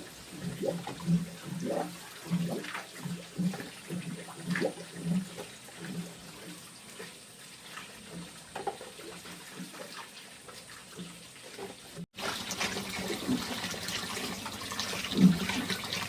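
Water splashing in irregular bursts for about twelve seconds. After an abrupt cut, steadier rushing water follows.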